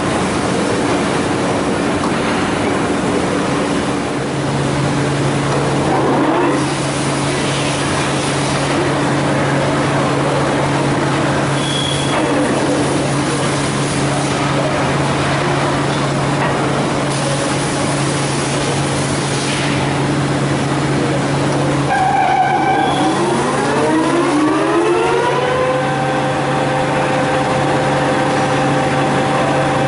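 Colchester Magnum LB800 gap-bed centre lathe running under power, a steady machine hum from its motor and headstock gearing. About three-quarters of the way through the hum breaks off and a whine rises in pitch over a few seconds, then settles at a new steady speed, as the spindle runs up to a different speed.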